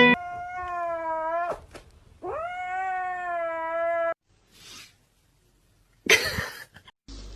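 A cat yowling: two long, drawn-out calls, the second a little longer. A short, loud rush of noise follows about six seconds in.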